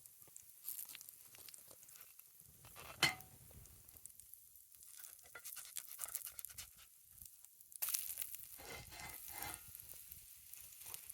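Campfire crackling and food sizzling in a cast iron skillet, with one sharp pop about three seconds in. A denser stretch of hiss and crackle starts about eight seconds in.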